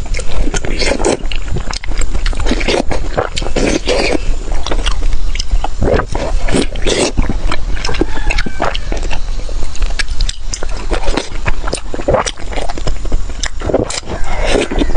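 Close-up eating: a person chewing and biting food, a busy, irregular run of loud clicks, crunches and wet mouth sounds.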